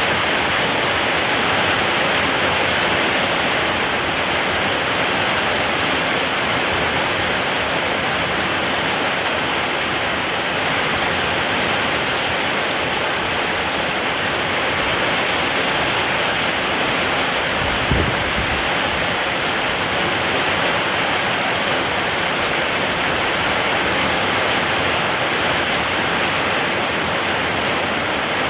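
Steady rain falling, an even rushing hiss, with a single brief low thud about two-thirds of the way through.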